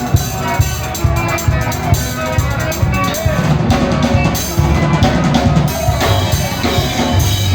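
Live band music with a drum kit keeping a steady, driving beat under sustained instrumental lines.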